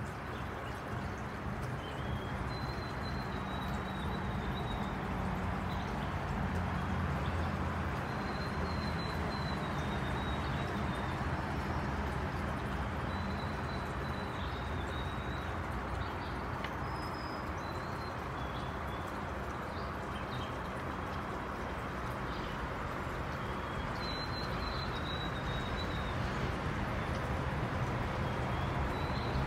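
Steady background rumble and hiss, with a bird's short, high chirps every few seconds.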